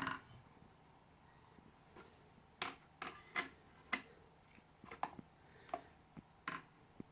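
Handling noise of a plastic vacuum cleaner tube and hacksaw being set in place for a cut: about ten light, scattered clicks and knocks, irregularly spaced.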